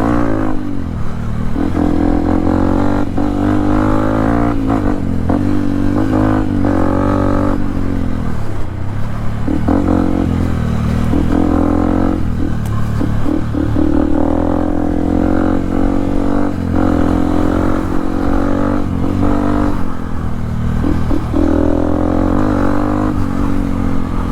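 Yamaha WR155R's single-cylinder engine running under way, its pitch rising and falling with the throttle.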